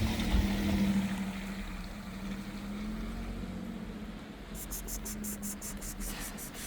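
A steady low mechanical hum, like a running engine, with a quick run of faint high ticks about two-thirds of the way through.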